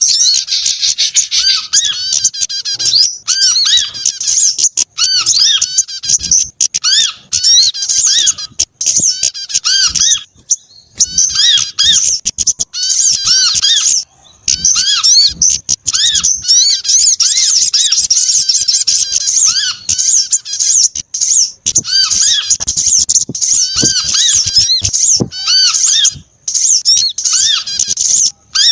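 A bird-lure recording that mixes the calls of several small songbirds, with rapid high chirps and twittering overlapping almost without pause. Short arched notes repeat over and over beneath the higher chatter.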